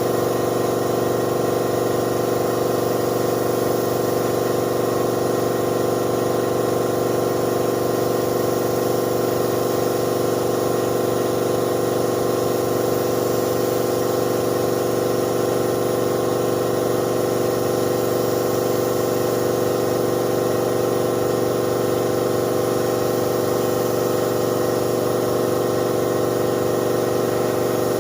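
A motor-driven machine, such as a paint-shop air compressor, running with a steady, unchanging hum.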